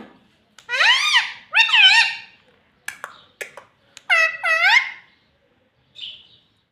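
Talking parrot calling out two two-syllable words in a high, mimicked voice, about a second in and again about four seconds in, with a few sharp clicks between them.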